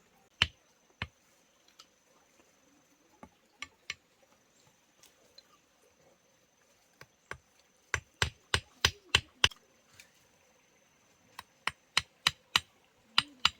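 Hammer blows, sharp and separate: a few scattered strikes, then two quick runs of about six blows each in the second half.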